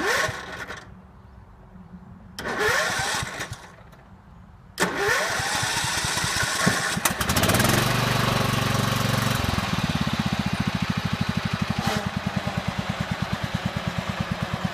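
Riding lawn tractor engine being started with its electric starter: two short cranks with a rising starter whine, then a third, longer crank that catches about 7 s in. It runs faster for a couple of seconds, then settles into a steady, rapidly pulsing idle.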